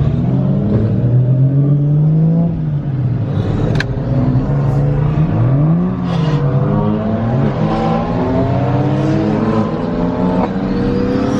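A car engine running under load, its pitch rising as it accelerates and dropping as it eases off, several times over. A rising whine starts near the end.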